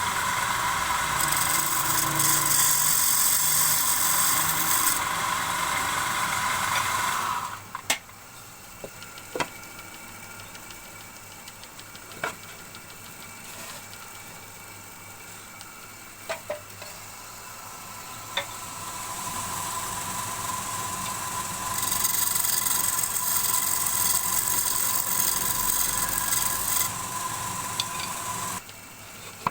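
Wood lathe running while a turning tool cuts the spinning wood of a bowl, a loud steady hiss with a whine. The cutting stops about seven seconds in, leaving the quieter machine running with a few sharp clicks, then builds again around twenty seconds and stops shortly before the end.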